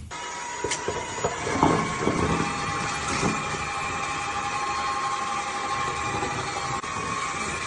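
Dyson wet-cleaning vacuum running with a steady motor hum and whine. A few knocks come in the first three seconds.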